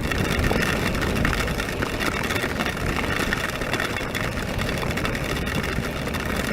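Honda NC700X motorcycle's parallel-twin engine running steadily, under an even rush of wind and rain noise on a wet road.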